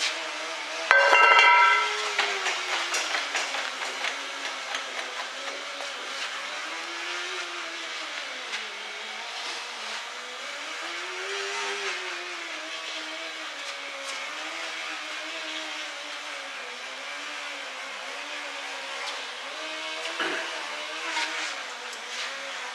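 A metallic clang that rings briefly about a second in, followed by a run of light taps, over a continuous hum whose pitch slowly rises and falls.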